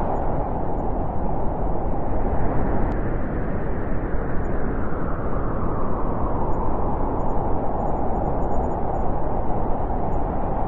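Steady wind, a rushing noise that swells and ebbs in pitch: it rises about two to three seconds in, sinks in the middle and rises again near the end.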